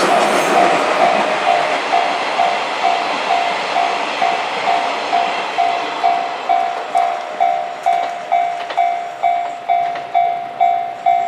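A railway level-crossing alarm ringing steadily at about two strikes a second, while the noise of the passing train, an EF66 electric locomotive hauling new Keikyu 1000-series cars, fades away over the first few seconds.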